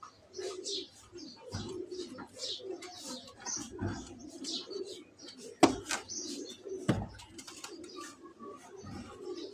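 Pigeons cooing repeatedly, with many short high-pitched chirps from birds mixed in. Two sharp knocks stand out, about five and a half and seven seconds in.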